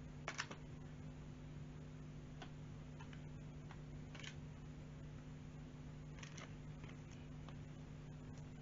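Small plastic clicks and taps of LEGO pieces being handled and pressed together, a few scattered ones with the strongest pair just after the start, over a steady low hum.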